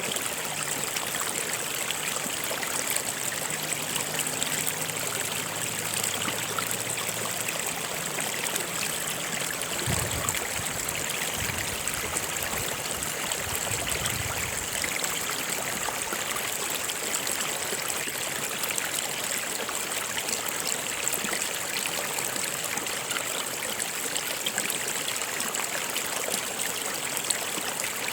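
Running stream water, a steady rushing flow.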